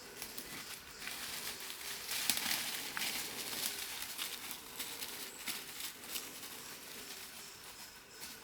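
Footsteps on a damp, leaf-strewn forest path: irregular crunching and rustling, busiest from about a second in until near the end.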